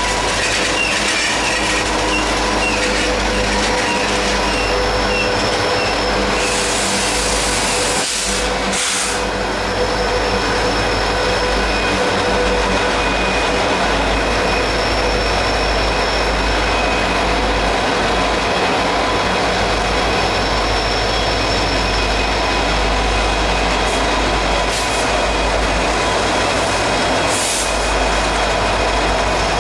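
Norfolk Southern freight train passing at close range. Coal hopper cars roll by first, then a set of diesel locomotives in the consist. The wheels make a steady rumble on the rails, with several steady ringing tones over it.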